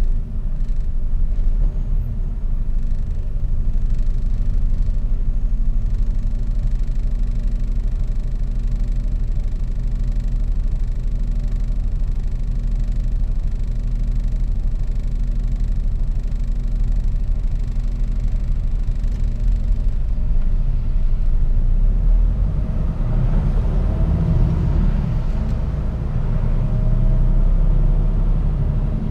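Mercedes-Benz Actros truck's engine and road noise, picked up by a dashcam as a steady low rumble. The sound grows rougher and fuller from about 22 seconds in.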